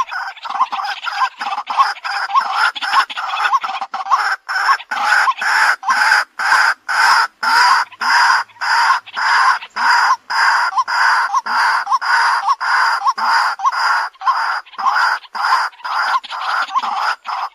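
White-breasted waterhen calling, a long run of harsh repeated notes. They come quicker and softer for the first few seconds, then settle into a steady beat of about two or three a second.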